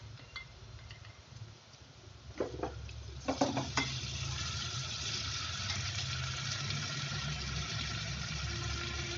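Garlic and onion frying in hot oil in a metal pan, stirred with a steel ladle: faint at first, then a few ladle clatters against the pan about two and a half seconds in, after which a steady sizzle sets in as green chilli paste is stirred through the oil.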